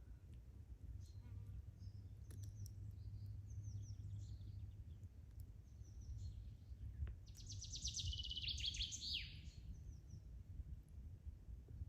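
Wild birds singing and chirping in spring woodland, with one louder song of rapid notes falling in pitch about seven seconds in, over a steady low rumble.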